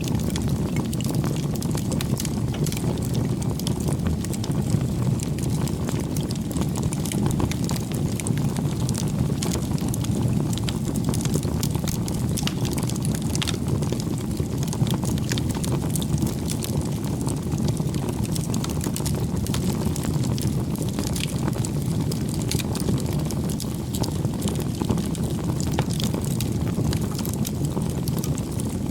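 Wood bonfire burning: a steady low rush of flame, with frequent small, irregular crackles and pops from the burning wood.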